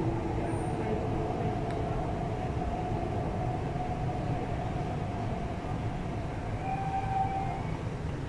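MTR East Rail line electric train noise: a steady low rumble with a steady electric whine, one tone of which rises briefly about seven seconds in.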